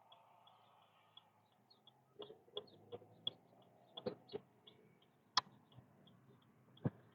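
Irregular sharp taps of raindrops hitting the car's windshield and body, thickest after about two seconds in, over faint road noise. A faint fast regular ticking, about three ticks a second, runs underneath.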